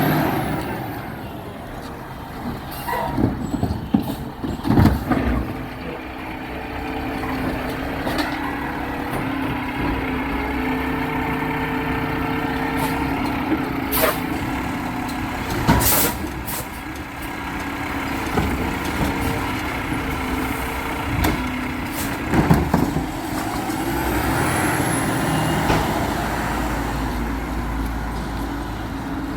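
Garbage truck working: its diesel engine running steadily, broken by several loud knocks and bangs, with an air-brake hiss late on.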